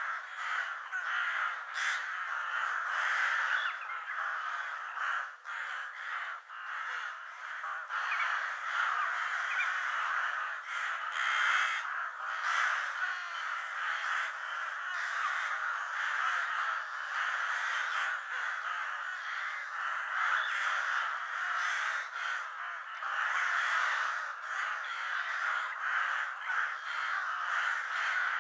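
Crows cawing in a dense, continuous chorus of many overlapping calls, with no pauses.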